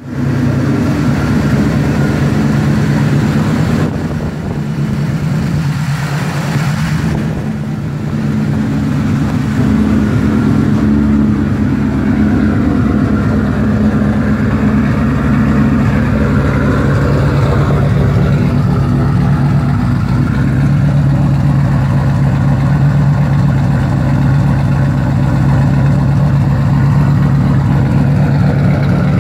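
Twin-turbocharged 2003 Mustang Cobra 4.6-litre V8 running steadily on a chassis dyno, holding a fairly constant speed with no rising pull. The sound eases a little from about four to eight seconds in, then holds level.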